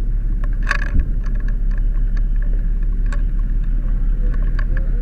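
Steady low rumble of a fire engine running at the scene, with scattered clanks and clicks of gear being handled and a sharp thump about a second in.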